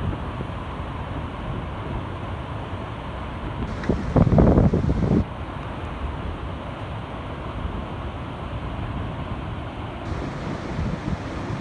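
Heavy rain falling in a steady rush, with wind buffeting the microphone. About four seconds in, a louder surge of noise lasts for about a second.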